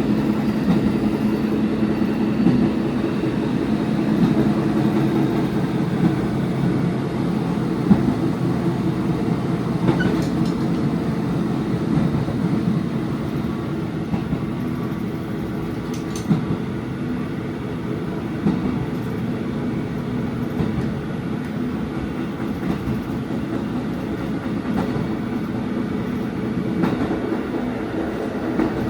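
Diesel railcar running along the line, with a steady engine hum and now and then the knock of wheels over rail joints, heard from inside the front of the car.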